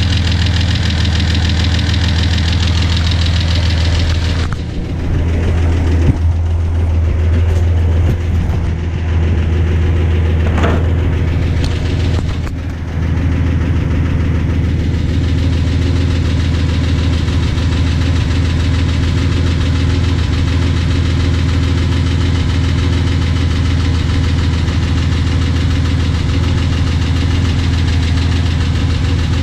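Datsun 280Z's freshly rebuilt L28 inline-six idling steadily at about 800 rpm during its break-in run, with a couple of short clicks a few seconds in.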